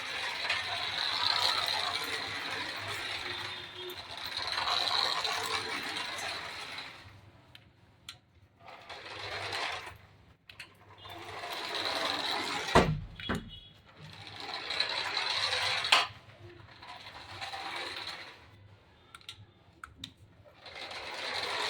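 Remote-control toy jeep's small electric motor and plastic gears whirring as it drives, steadily for about seven seconds, then in short stop-start spells. A few sharp knocks come in between, one of them deep, about thirteen seconds in.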